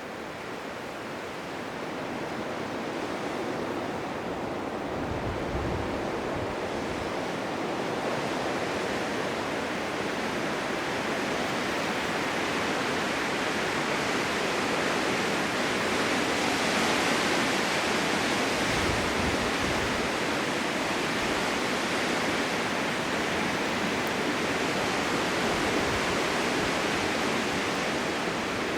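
Blizzard wind blowing as a steady rush, building over the first few seconds, with a couple of brief low gusts buffeting.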